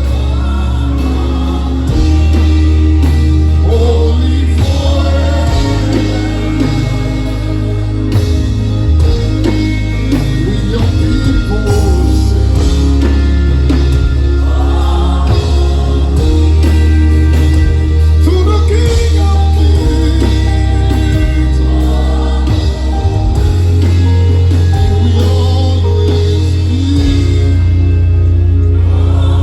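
Live gospel worship music: a band with heavy bass playing sustained chords under voices singing.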